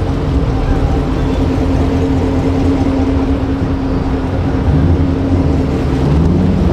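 Car engine running steadily with a deep rumble and a held pitch, the pitch of a lower part rising near the end.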